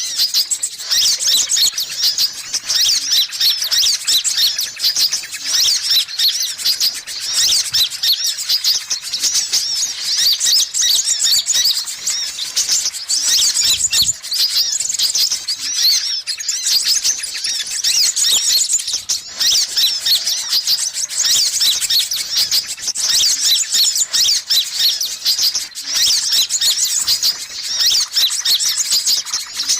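Sunbird lure calls, the kind sold as 'kolibri ninja' and brown-throated sunbird ('kolibri kelapa') calls: a dense, unbroken stream of rapid, high-pitched chirps and trills, loud and busy.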